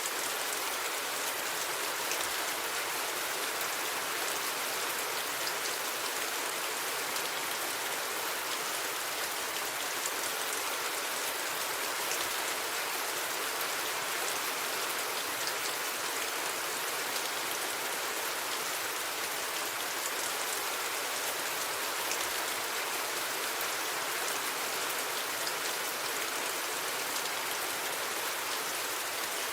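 Steady rain falling, an even hiss of many small drops that holds without breaks or swells.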